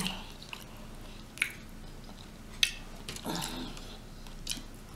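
Close-miked eating of rotisserie chicken thigh meat: quiet chewing with a few sharp wet mouth clicks, one about a second and a half in and another about two and a half seconds in. A short low hum in the throat comes a little past halfway.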